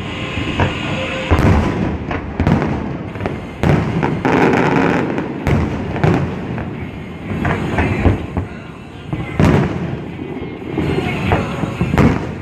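Fireworks going off: a string of loud, sharp bangs at irregular intervals over a continuous crackle and rumble of further bursts.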